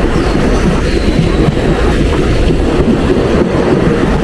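Mumbai suburban electric local train running, heard from on board: a steady, loud rumble and rattle of the carriage on the rails.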